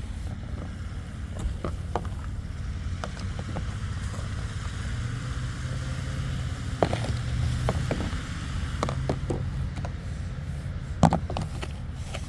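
Steady low rumble of a motor vehicle, with its engine hum swelling for a few seconds mid-way, and a few scattered light knocks, one sharper knock near the end.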